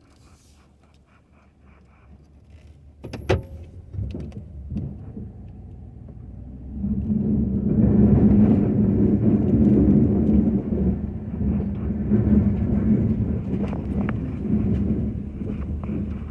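A sharp knock about three seconds in, then a Ford F-250 pickup's engine comes up and runs loud and steady under load from about seven seconds in.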